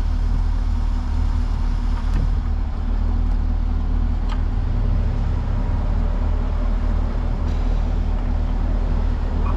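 2021 Camaro 2SS's 6.2-litre V8 idling steadily, with a few faint clicks over it.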